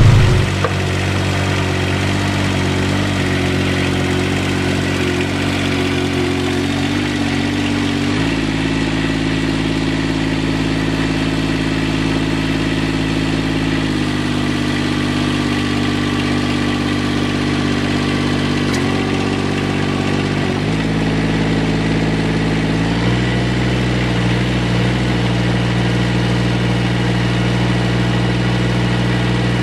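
A vehicle engine running steadily, its pitch shifting a few times.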